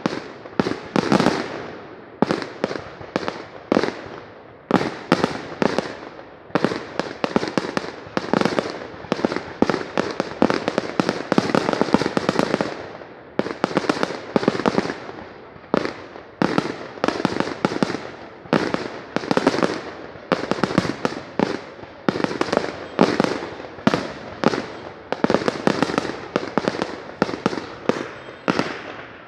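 Fireworks display: an unbroken string of bangs and crackles, several a second, coming in clusters that swell and ease off every few seconds.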